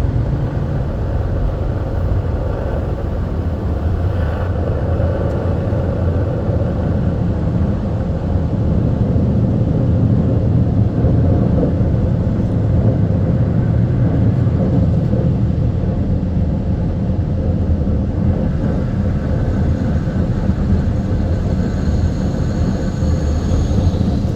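Car-wash dryer blowers blasting air over the car, a loud, steady rush with a heavy rumble, heard from inside the car.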